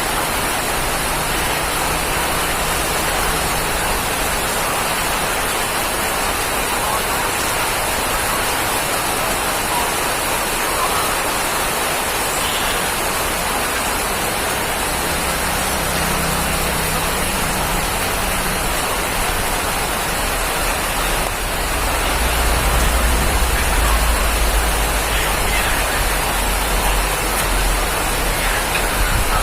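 Steady rain falling, an even hiss of drops. About two-thirds of the way through, a low rumble swells up beneath it and stays.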